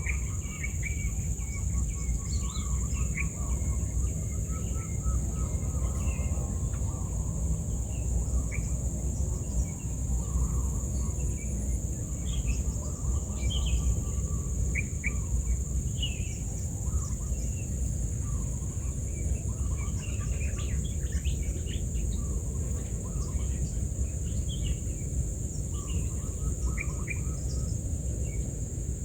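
Small birds chirping in short, scattered calls over a steady high-pitched insect drone such as crickets, with a low steady rumble underneath.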